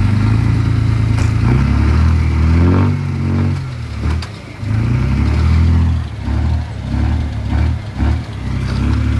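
Engine of an earthmoving machine revving and working under varying throttle: it swells and falls in pitch early on, then pulses in uneven surges with short dips.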